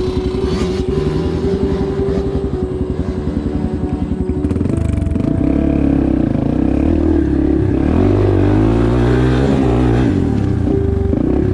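Dirt bike engine chugging at low revs with a fast, even beat, then revving up and down from about five seconds in.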